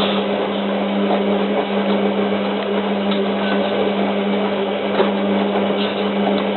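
Hotpoint 9534A washing machine tumbling a heavy wet load of towels in the wash phase, before heating, its drum motor running with a steady hum. The motor cuts off suddenly at the very end as the drum stops.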